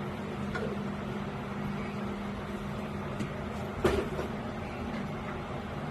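Air compressor running with a steady hum, with a few light clicks and one sharp clank about four seconds in as parts are handled.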